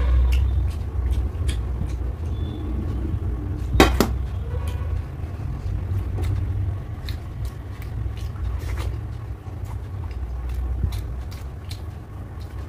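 Close-miked chewing and wet mouth smacks from eating rice and curry, over a deep rumble, with many small clicks and one sharp knock about four seconds in.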